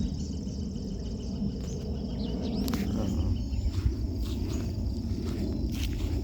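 Outdoor woodland ambience: a steady high insect trill over a constant low rumble, with a few faint clicks.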